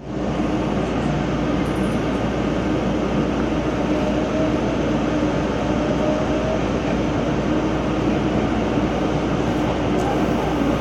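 Train running, heard from on board: a steady rumble of wheels and motors, with a faint whine that rises slowly in pitch partway through.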